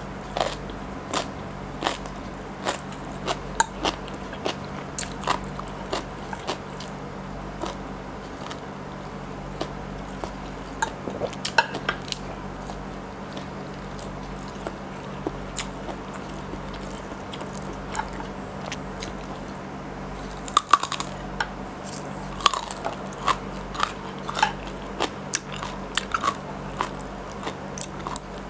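Close-miked biting and chewing of Thai green papaya salad: crisp shredded green papaya crunching between the teeth in an irregular run of sharp crunches, busiest about two-thirds of the way through. A faint low hum runs underneath.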